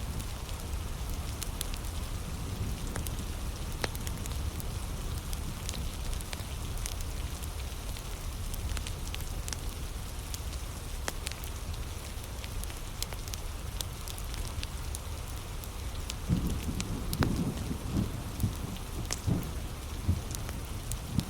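Heavy rain falling steadily, with a nearby wood fire crackling and popping in sharp little clicks throughout. A few low rumbles swell in near the end.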